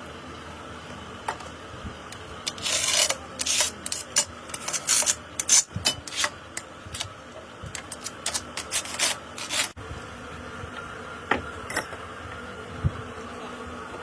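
A rapid, irregular run of scraping strokes, rough and rasping, that stops abruptly after several seconds, over a steady machinery hum; a few separate sharp clicks follow near the end.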